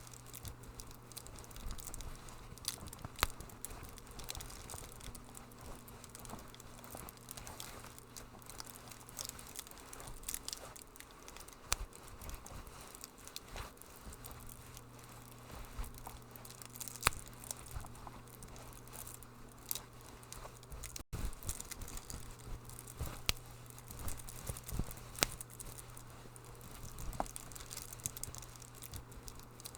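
Wood fire in a fireplace crackling, with irregular sharp snaps and pops over a soft steady hiss and a faint low hum. The sound drops out for an instant about two-thirds of the way through.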